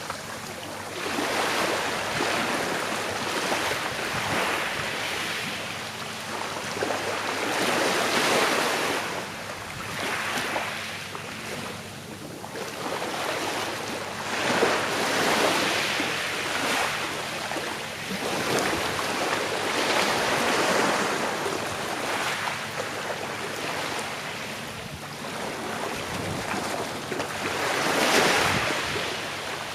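Small sea waves breaking and lapping on a shore, each wash swelling and falling away every few seconds.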